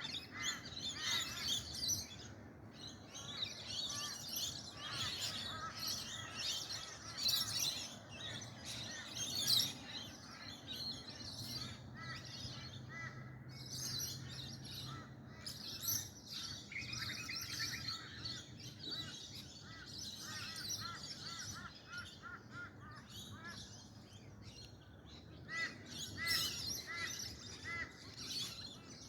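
Dawn chorus: many birds chirping, trilling and calling at once, overlapping continuously. A faint low hum sits underneath for several seconds in the middle.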